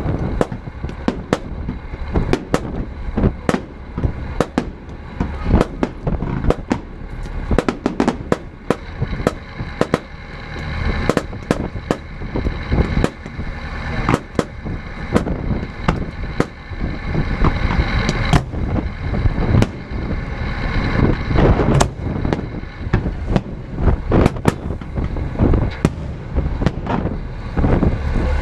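Fireworks display: a rapid, continuous barrage of shell bursts and bangs, many a second, over a dense low rumble.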